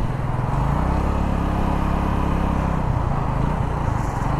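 Keeway Superlight 125 motorcycle engine running under throttle while riding, its note fading about three seconds in, with steady wind rush over the camera microphone.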